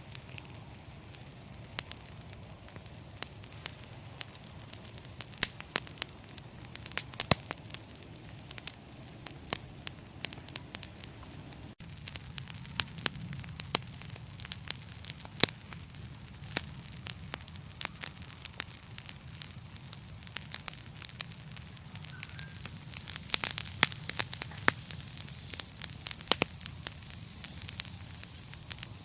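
Wood fire crackling in a fireplace: frequent irregular sharp pops and snaps over a steady low rush of flame.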